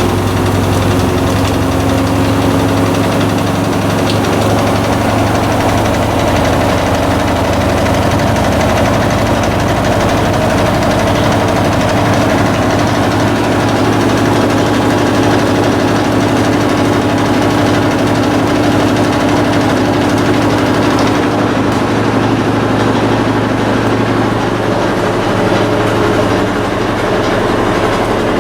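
Electrolux LF90 washing machine running with a steady motor hum and drum noise, loaded with rugs.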